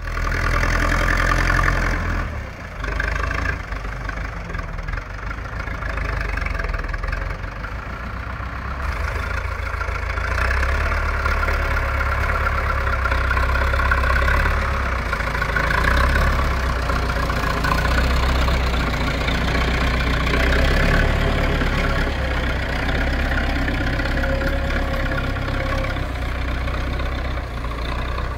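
Zetor 6245 tractor's diesel engine running steadily, a deep rumble with a grinding mid-range noise, as it pulls a three-furrow reversible plough.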